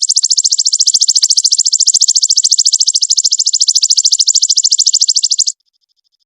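A songbird's rapid, high-pitched trill of evenly repeated notes, over a dozen a second, held for about five and a half seconds and then cutting off suddenly. It is a recorded 'isian' song of the kind played to train caged songbirds.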